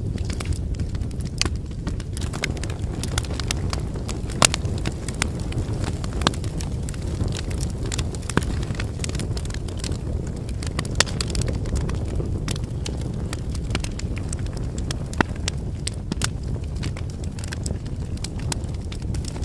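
Wood fire burning: a steady low rush of flames with frequent sharp crackles and pops from the burning firewood, a handful of pops louder than the rest.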